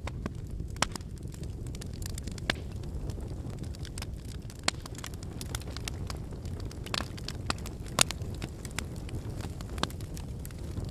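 Wood fire burning: a steady low rumble of flames with irregular sharp crackles and pops from the burning firewood, the loudest pop about eight seconds in.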